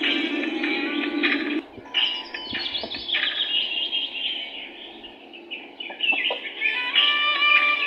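Birds chirping and calling, many short rising and falling calls overlapping, busiest in the middle and again near the end.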